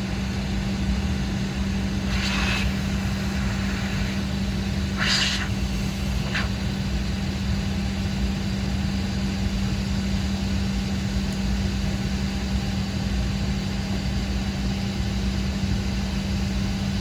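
Steady drone inside a Boeing 777-300ER cabin, a low rumble with a constant hum, from the aircraft's engines and air systems on the ground. A few brief rustle-like noises come about two and five seconds in.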